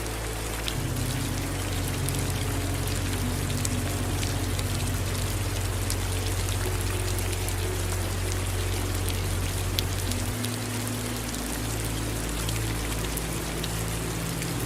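Steady rainfall, a constant hiss with many individual drops ticking through it, over a low rumble that shifts in tone about a second in and again around ten seconds in.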